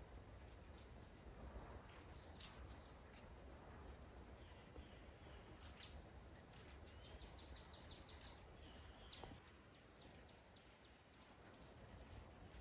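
Faint birdsong: a few short high chirps, then sharp downward-sliding whistles about halfway through, and a quick run of about ten rapid notes, all over a low steady background rumble.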